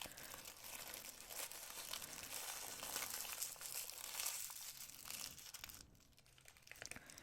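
Crinkly packaging being handled and folded, a rustling crinkle dotted with small clicks, dying down near the end.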